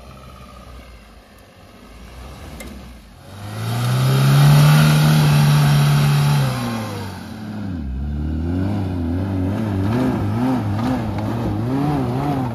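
An off-road 4x4's engine revving. It is faint for the first few seconds, then rises to a loud, high, held rev for about three seconds. It drops back near the seven-second mark, then revs up and down repeatedly.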